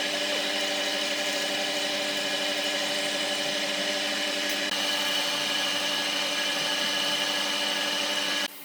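Electric woodworking power tool running at a steady pitch with a constant whirring hiss, cut off abruptly near the end.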